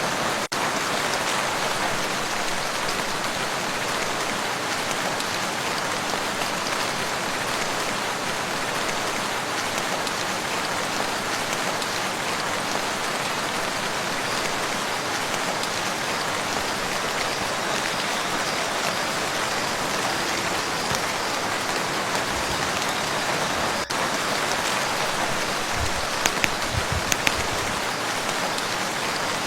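Steady rain falling on a lake, an even hiss of drops on water. Near the end a brief cluster of louder taps stands out.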